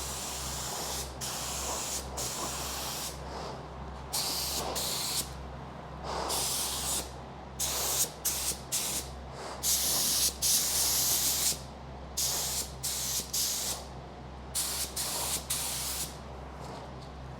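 Paint spray gun spraying epoxy primer, a hiss that starts and stops in bursts of under a second to about two seconds as the trigger is pulled and released, over a steady low hum.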